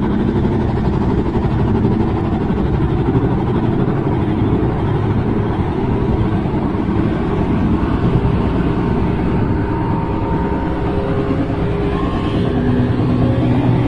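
A loud, steady low rumble with faint drawn-out tones over it in the second half: the kind of unexplained 'strange sound' heard in the sky.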